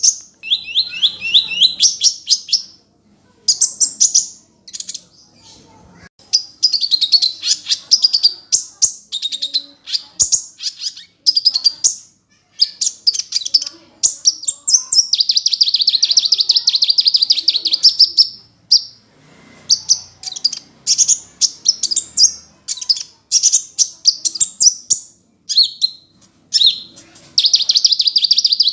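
Sunbird singing vigorously: fast, high-pitched trilling and chattering phrases separated by short pauses, with one long unbroken trill partway through.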